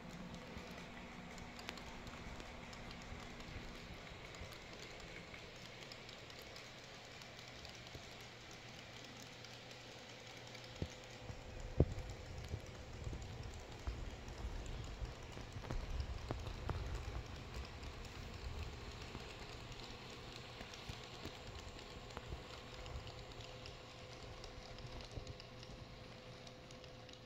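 N-scale EMU700 model train running slowly along its track: light irregular clicking of the wheels over the rails with a faint steady whine. It grows louder and rumbles more in the middle, with one sharp click about twelve seconds in.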